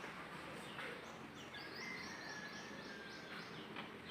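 Faint background noise with a small bird singing a quick run of short, high, repeated chirps in the middle.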